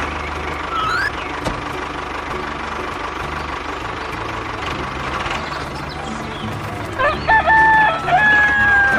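A rooster crowing once, a long call about seven seconds in, over a steady low background.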